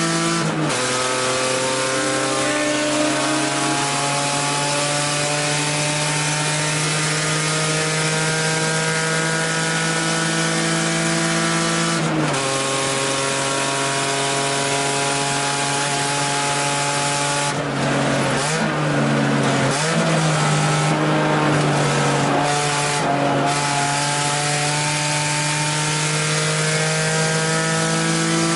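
1989 BMW 325i E30 race car's straight-six engine heard from inside the cabin under full throttle, its pitch climbing steadily with a sharp drop at each upshift, just after the start and again about twelve seconds in. About two-thirds of the way in the note falls and wavers as the car slows and downshifts for a corner, then climbs again under power.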